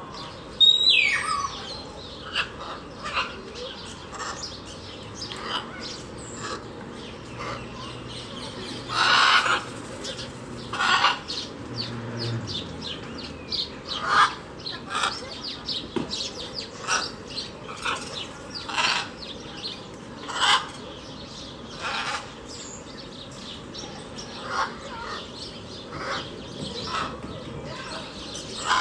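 Birds calling: many short, sharp calls repeated every second or so, with a downward-sliding call about a second in.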